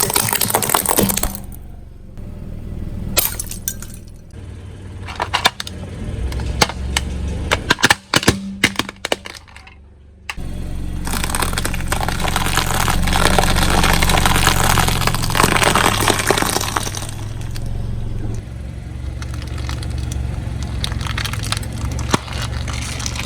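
A car tyre rolling over and crushing brittle objects. There is a run of sharp cracks and snaps, then a longer stretch of dense crunching and crackling.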